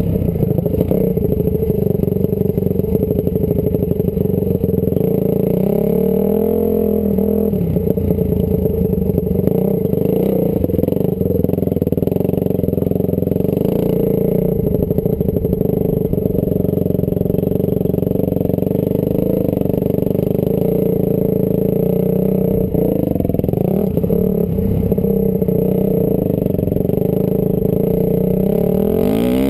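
Honda CRF250R single-cylinder four-stroke dirt bike engine running hard on a motocross track, its revs rising and falling as the throttle is worked, with a dip about six seconds in and a climb near the end.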